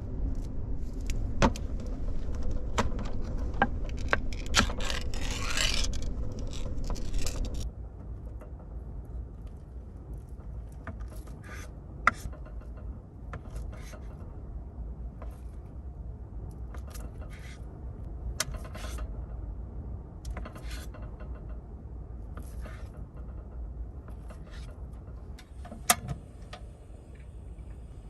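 Clicks, scrapes and small rattles of things being handled inside a kei car, over a low steady rumble. A steady hum under it cuts off suddenly about eight seconds in.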